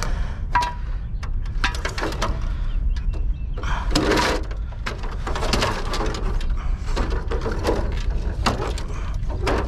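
Irregular clicks, knocks and clatter of hand tools and metal and plastic parts being handled while scrap electronics are taken apart, with a louder clatter about four seconds in, over a steady low rumble.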